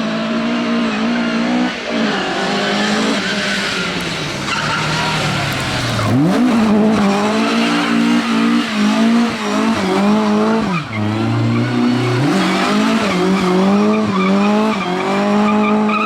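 Rally car engine revving hard and rising and falling through the gears, with tyres squealing and skidding. The revs drop sharply about six seconds in and again about eleven seconds in, then climb again.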